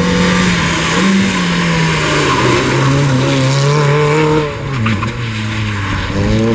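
Rally car engine at high revs. The pitch sags gradually, drops sharply about four and a half seconds in as the car slows, then climbs again as it accelerates away.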